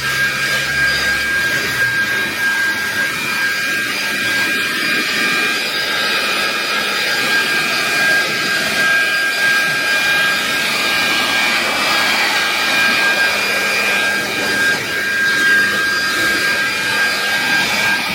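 Handheld detailing blower running steadily at full power, a constant high whine over the rush of air, as it blows leaves and dirt out of a car's trunk and engine bay.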